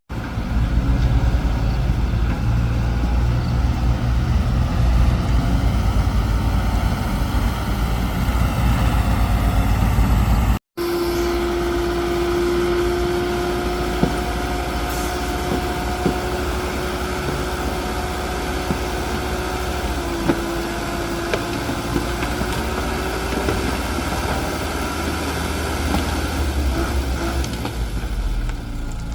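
Excavator's diesel engine running with a steady low rumble, cut off briefly about a third of the way in. After the break a steady whine sits over the engine for a while, and there are a few light clicks.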